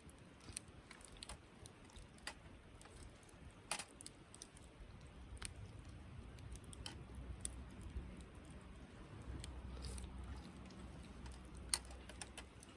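Wood campfire crackling: irregular sharp pops and snaps, a few louder ones, over a low rumble in the second half.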